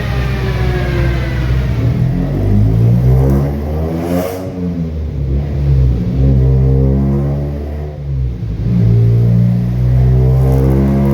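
Mk2 Volkswagen's 16-valve engine with individual throttle bodies running on a chassis dyno. The revs fall, climb and drop again about four seconds in, then hold steady with a brief dip near the end.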